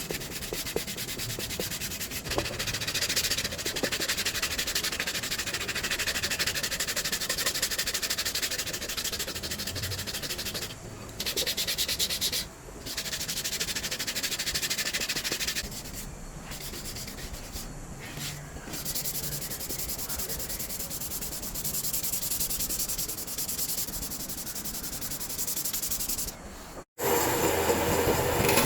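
Wood being sanded: a steady scratchy rubbing, broken off abruptly several times. Near the end it gives way to a louder, steady sound of a different kind.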